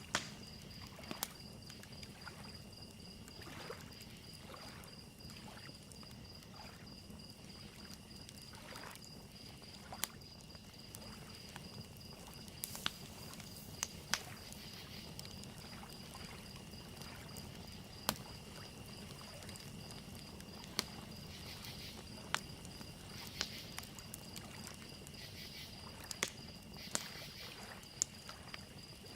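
Evening nature ambience: crickets chirping steadily, wood fire crackling with sharp irregular pops every second or few, and soft lake waves lapping underneath.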